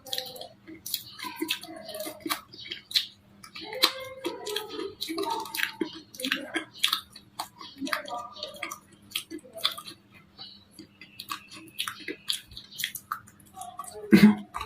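Close-up chewing and crunching of baked clay, with a run of irregular crisp crackles as the hard clay bar is bitten and broken down in the mouth.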